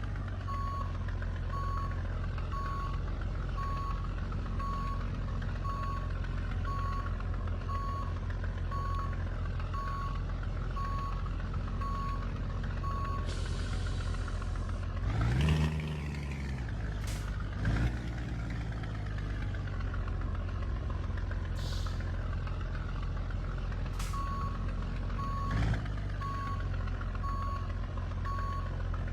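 Scania truck's diesel engine running steadily while its reversing alarm beeps about once a second. Midway the beeping stops, with a short hiss and a rise and fall in engine pitch, then a few sharp clicks, and the beeping resumes near the end.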